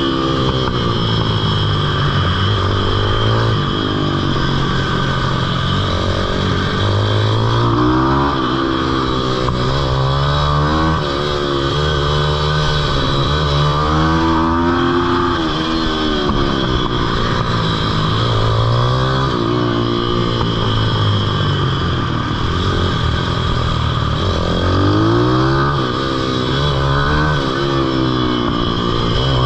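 Pitbike's single-cylinder engine revving hard, its pitch climbing and dropping again and again every few seconds as it accelerates and backs off around the kart track's corners.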